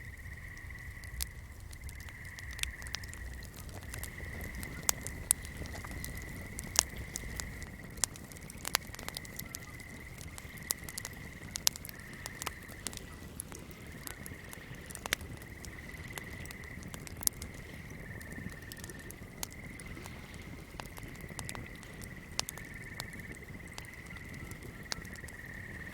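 Fire crackling with sharp, irregular pops over a swamp night chorus, a steady high-pitched drone, and a low rumble.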